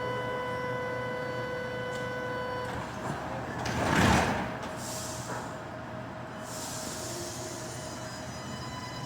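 Light rail train standing at a station platform: a steady electric whine of several pitches stops a little under three seconds in. About four seconds in, a loud rushing noise rises and falls over about a second, then the train's steady hum carries on.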